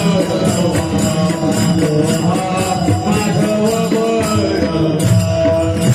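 Marathi devotional kirtan: melodic singing over small metal hand cymbals struck in a steady rhythm, about three strikes a second.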